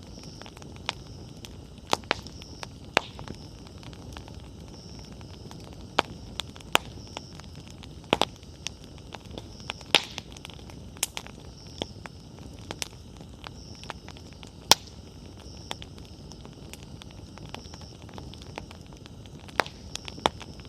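Wood campfire burning, with irregular sharp crackles and pops of the burning firewood over a steady low rush of the flames.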